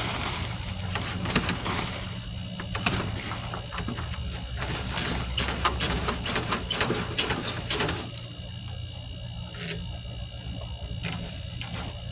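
Garden soil being dumped and spread into a raised bed: dense rustling and scraping with many small clicks for about eight seconds, then much quieter.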